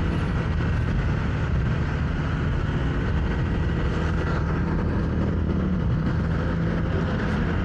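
Steady motorcycle riding noise: a constant engine drone under rushing wind and road noise, as picked up by a mic worn while riding with a helmet on.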